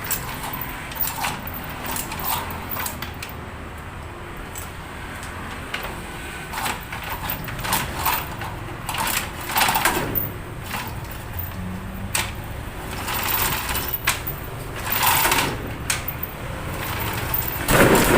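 Rapid mechanical clicking and rattling from hand work on a car engine, with scattered metal knocks and scrapes, over a low steady hum.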